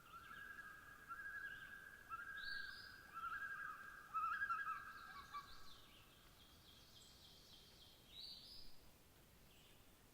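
Several birds singing: a low, warbling, chattering song for the first half, with higher chirps over it and a quick run of higher notes after the middle.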